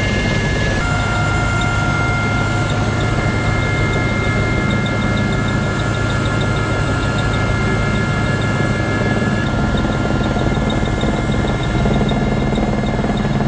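SA342M Gazelle helicopter running steadily, its Turbomeca Astazou turbine and transmission giving several steady high whines over a low rotor rumble.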